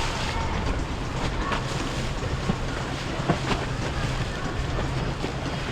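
Boat engine running steadily as it passes, with waves and wind noise on the microphone.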